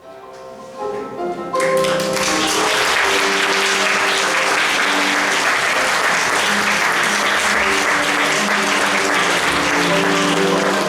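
Music begins, and about a second and a half in an audience breaks into sustained applause over it, greeting the end of an act of a stage play.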